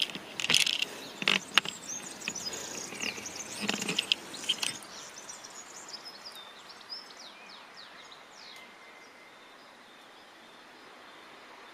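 Small birds chirping, short high calls that fall in pitch, over faint steady outdoor background noise. A few sharp clicks and knocks in the first few seconds are the loudest sounds.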